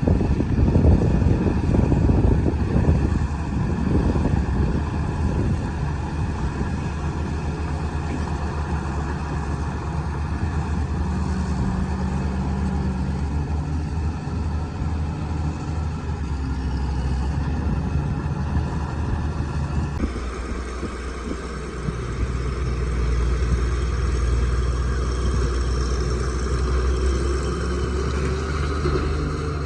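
Crawler bulldozer's diesel engine running under load as it pushes rock. The rumble is uneven for the first few seconds, then steady, and it shifts abruptly about two-thirds of the way in.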